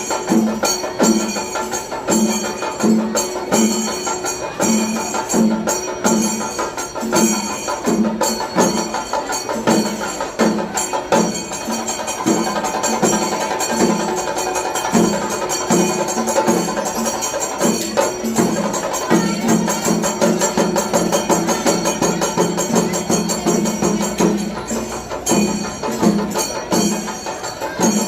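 Percussion ensemble of drums and cymbals playing a steady beat, about two strokes a second, becoming denser for a few seconds about two-thirds of the way through.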